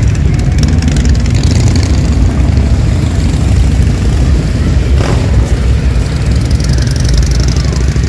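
Engines running with a loud, steady low rumble.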